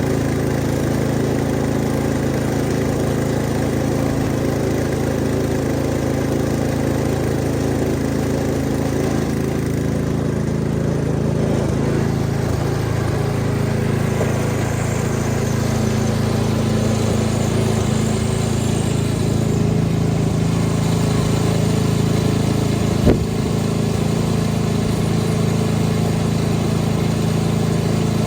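Snow-removal machine's engine running steadily at an even pitch, with one sharp click late on.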